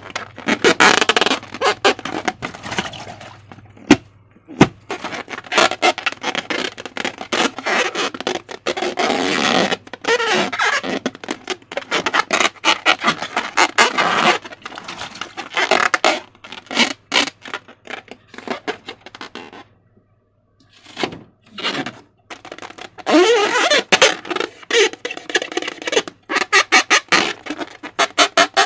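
Slime being squeezed and stretched by hand, with wet squelching and dense crackling clicks and a brief pause about two-thirds of the way through.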